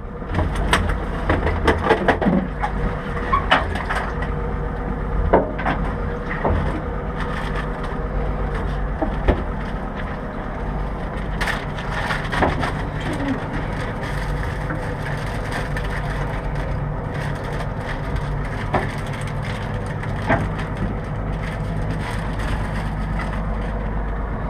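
A boat's engine idling with a steady low hum, under irregular knocks, clicks and clatter of tools and gear being handled on board.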